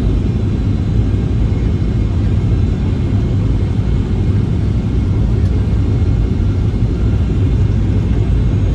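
Steady low rumble of a jet airliner's engines, a Boeing 737-800, with no rise or fall.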